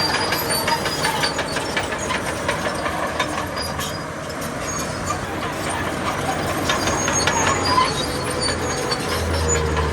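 Heavy earthmoving machinery at work: a diesel engine running under a continuous fast metallic clanking and rattling. The low engine note grows stronger near the end.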